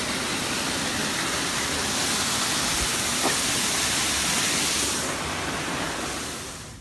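Steady rushing hiss of falling water from a waterfall, swelling in and fading out near the end.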